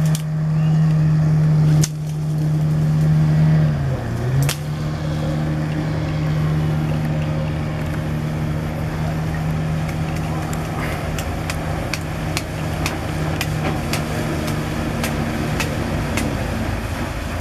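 Motorboat engine running at a steady high speed, its pitch dipping briefly about four seconds in before picking back up. A series of sharp ticks sounds over it in the second half.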